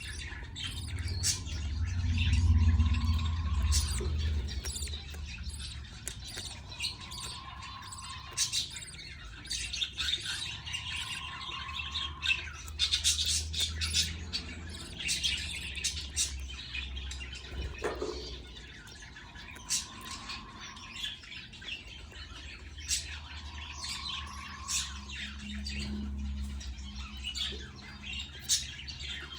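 Budgerigars chirping and squawking in a run of short, sharp calls, with a low rumble loudest in the first few seconds.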